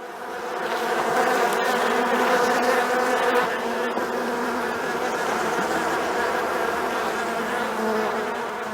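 Bees buzzing: a steady, slightly wavering drone that fades in at the start.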